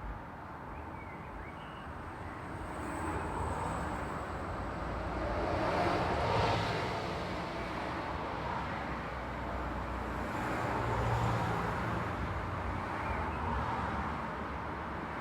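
Road traffic: a steady wash of tyre and engine noise, swelling as vehicles pass about six and eleven seconds in.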